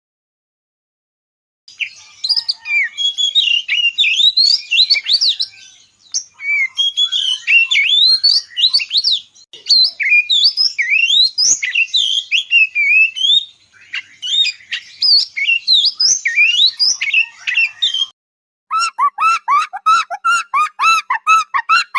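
Birds chirping and squawking in dense, overlapping calls, which cut off suddenly; after a short gap a different, lower animal call starts, repeated rapidly about four times a second.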